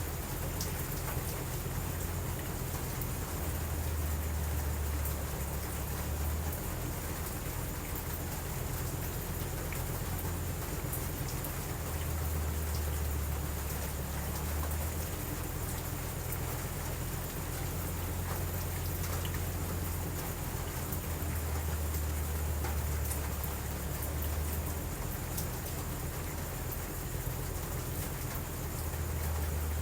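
Steady heavy rain falling, an even hiss, under a deep low rumble that swells and fades every several seconds.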